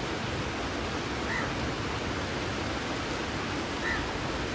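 Steady rain falling, an even hiss. A bird calls faintly twice over it.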